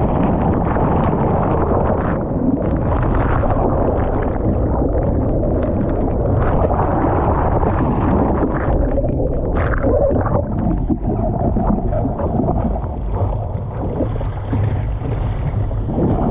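Muffled churning water and wind buffeting the microphone, loud and steady, as from a camera out in the surf.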